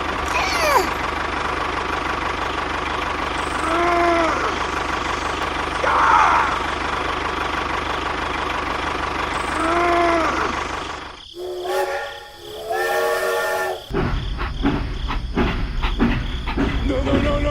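Train running with a steady rumble, three short rising-and-falling whistle toots, then a louder chord-like train horn sounding twice; afterwards the background changes to a choppier noise.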